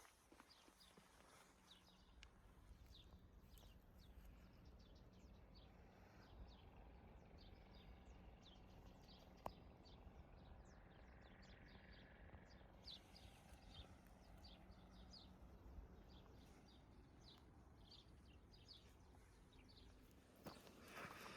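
Near silence: faint outdoor ambience with a low rumble and many faint, short high chirps scattered throughout, and a single sharp click about halfway through.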